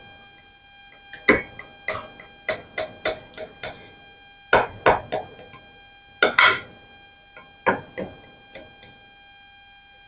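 A knife tapping and scraping against a baking pan while cutting a pressed tuna dog-treat mixture into squares: a string of irregular sharp clicks and knocks, a few of them louder.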